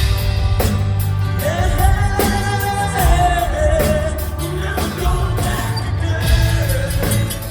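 Live rock band playing loudly, with a sung lead vocal holding long notes over drums, bass and guitars.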